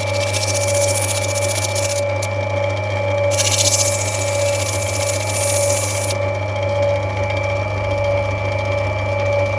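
Lapidary grinding machine's motor running with a steady hum while an opal is ground against the wheel, the grinding hiss breaking off briefly about two seconds in and stopping about six seconds in as the stone is lifted away.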